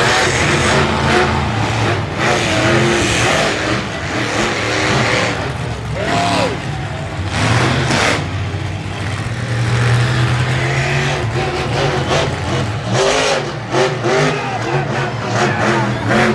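Monster truck engines running and revving, the engine note swelling and easing in pitch and loudness.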